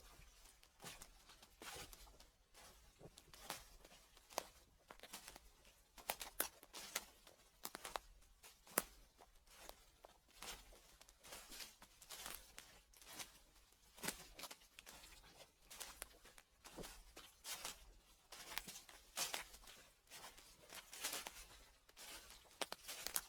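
Footsteps crunching through dry fallen leaves, a steady walking rhythm of crackling rustles, about one step every second or so. A faint low hum sits beneath.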